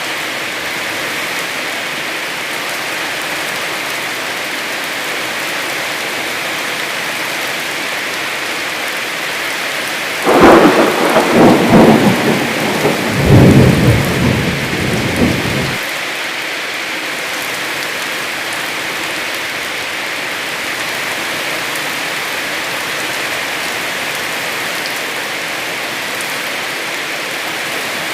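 Steady heavy rain. About ten seconds in, a loud clap of thunder rolls for around five seconds, then dies away under the rain.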